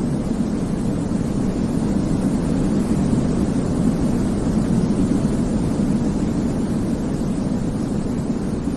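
Steady sleep-aid white noise: a deep, even rumble without any rhythm or change, heavier in the low range than in the hiss.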